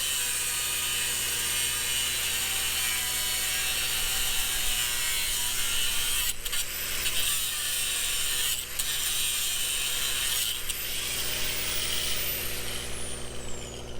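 Angle grinder cutting through steel bolts, a continuous harsh grinding with a few brief breaks where the motor whine climbs again. Near the end the grinder is released and its whine falls steadily as the disc spins down.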